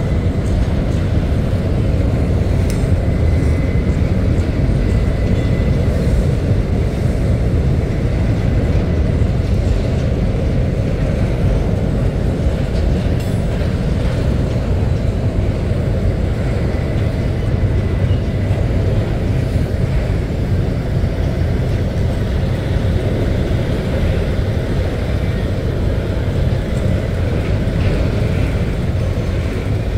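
Covered hopper wagons of a freight train rolling past, a steady low rumble of wheels on rail, heard from inside a car.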